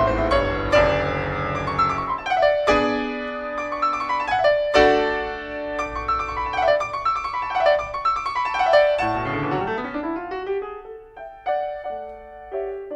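Background piano music: quick runs of notes, thinning out near the end.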